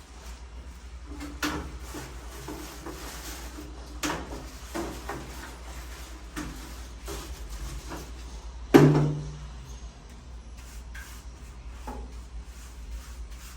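Scattered knocks and clatters of household things being handled during cleaning, like cupboard doors and drawers opening and closing, with one louder thump about nine seconds in, over a low steady hum.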